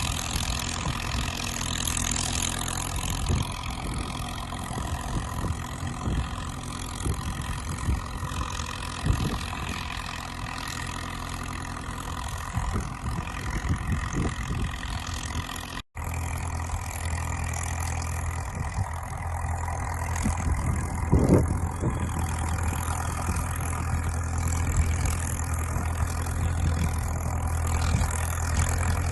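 Crawler dozer's diesel engine running steadily, with scattered knocks and clanks. The sound drops out for an instant about halfway through, and a stronger low hum follows, with one louder knock a few seconds later.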